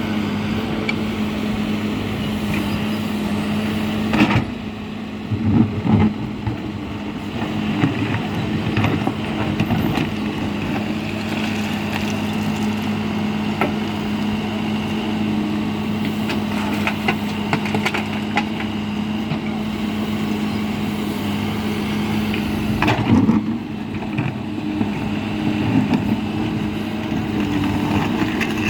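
Heavy diesel engine of a backhoe loader working steadily, with a loud cluster of clanks and thuds a few seconds in and again later on.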